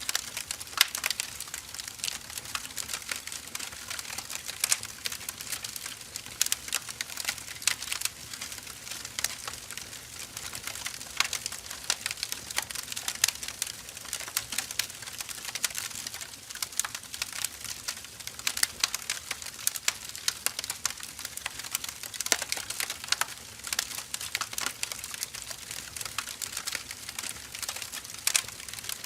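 Burning firewood crackling and popping continuously, with irregular sharp snaps over a soft hiss of the flames.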